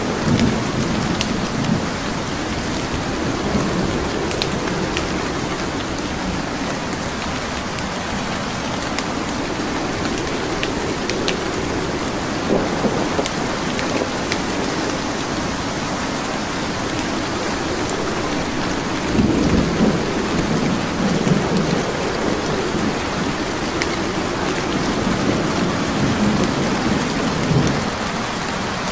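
Steady rain with low rolls of thunder, the strongest about two-thirds of the way in, over the scattered sharp pops of a wood fire crackling.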